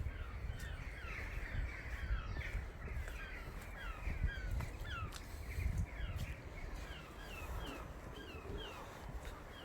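A flock of birds calling: many short, quick calls overlapping one another all the while, over a low rumble.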